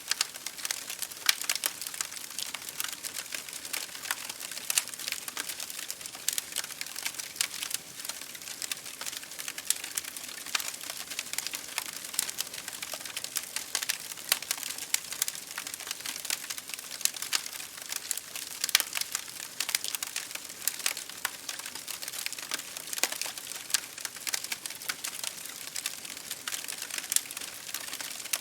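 Wood fire crackling in a fireplace: dense, irregular small pops and snaps over a steady hiss, mixed with rain drops hitting a window pane.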